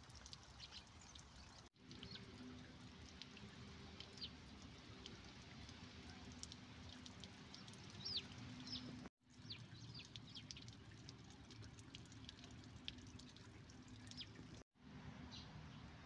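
Faint birdsong of small birds: many short, high chirps and quick little whistled glides, scattered throughout over a low steady hum. The sound drops out completely for a moment three times, at cuts in the recording.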